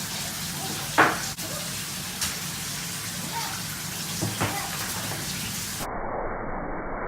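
Water running steadily with a hiss, with a sharp knock about a second in and a few lighter knocks later; near the end the sound turns duller.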